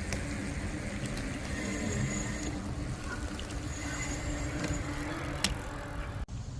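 Wind and road rumble of a bicycle ride, with a steady low hum and a few sharp clicks; the sound cuts out for an instant near the end.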